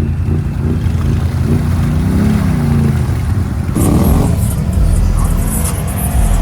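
Can-Am Outlander ATV's V-twin engine revving up and down while riding, with a sudden louder rush of noise about four seconds in.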